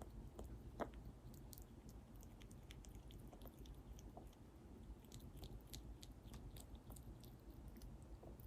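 Faint chewing from a lesser bushbaby eating: many quick, soft clicks and crunches, with one sharper click a little under a second in.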